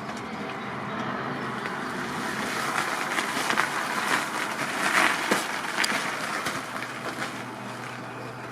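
Suzuki RM125 two-stroke dirt bike engine running on a cold start through its stock exhaust pipe. It grows louder toward the middle, then eases back.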